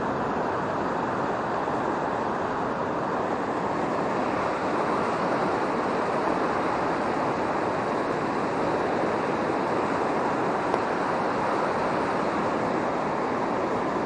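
Steady rushing of a river running high and fast in flood from typhoon rain.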